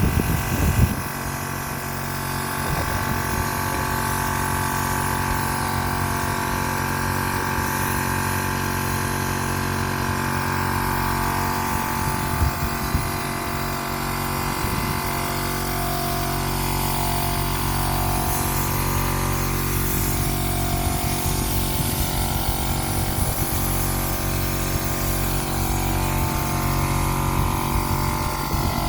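A motor running steadily with a hum and whine, with a few short knocks.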